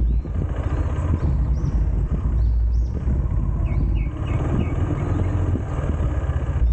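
KTM 390 motorcycle's single-cylinder engine running while riding, a steady low rumble of engine and road noise.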